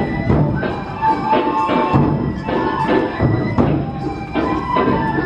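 Matsue dō-gyōretsu festival music: a large dō drum struck in a steady beat, about two to three strokes a second, with a bamboo flute melody held over it.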